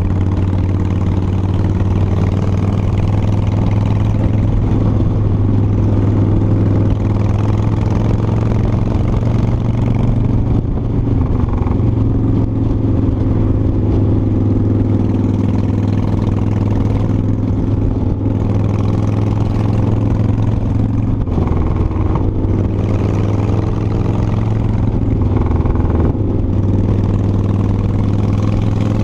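Cruiser motorcycle engine running steadily at road speed, with wind rushing over the microphone. The engine note shifts slightly about a third of the way in and again near the end.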